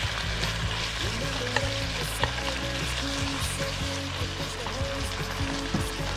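Pork ribs sizzling in their braising sauce in a granite-coated pan, with a metal utensil stirring the freshly added sugar into the sauce and clicking lightly against the pan a few times.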